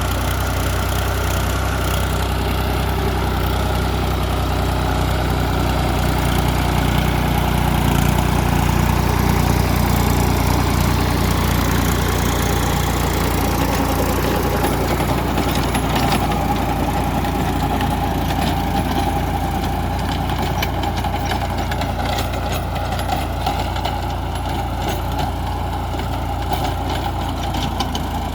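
Tractor engine running steadily, a little louder about a third of the way through.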